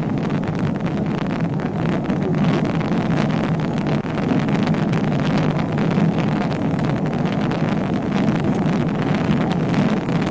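Steady vehicle driving noise, engine and road rumble with wind rushing over the microphone.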